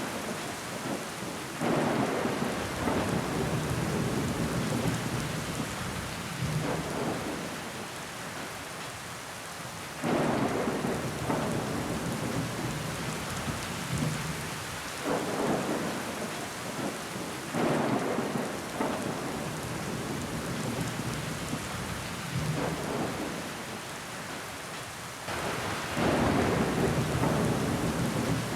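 Heavy rain falling against a window pane, with water running down the glass. A steady hiss of rain surges suddenly louder every few seconds, then eases back.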